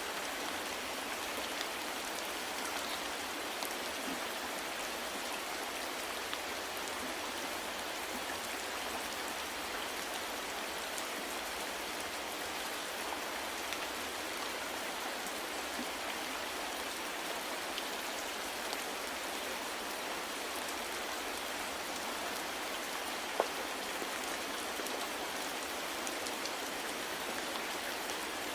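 Steady soft rainfall, a constant patter of drops falling on a surface, with one slightly louder drop tick about 23 seconds in.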